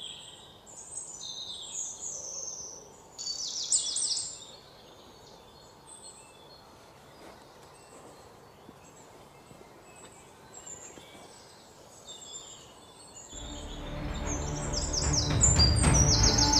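Birds chirping and calling in a forest, with a quick trill about three seconds in and another near the end; between the calls the background is faint. Music fades in and grows louder over the last few seconds.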